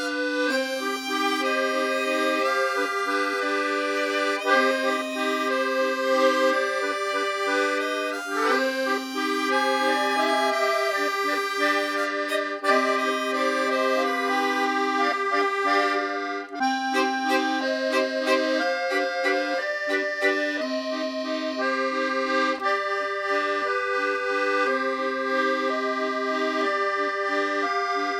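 Accordion music: sustained reedy chords and a melody over a steady held bass note.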